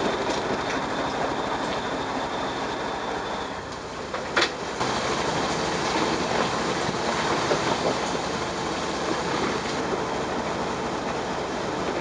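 Fishing boat's engine running with a fast, steady low beat under a wash of water and wind noise, with one sharp knock about four and a half seconds in.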